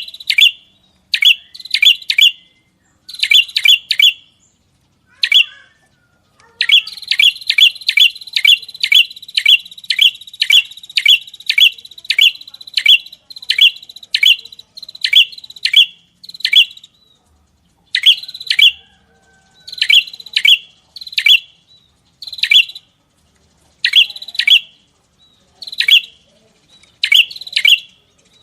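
Recorded song of a small songbird: loud, sharp, quick-falling 'tembakan' (shot) notes in clusters of two to four, with clean silent gaps between. From about seven to sixteen seconds in, a long run of these notes comes about two a second over a thin, steady high trill.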